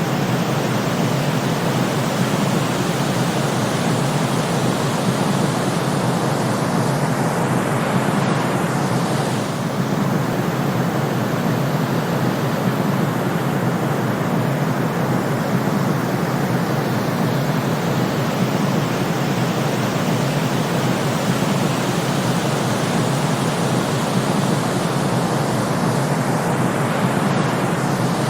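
Steady synthetic noise from a sleep timer's countdown, an even hiss weighted toward the low end like pink or brown noise. A faint downward whoosh passes through its top about eight seconds in and again near the end.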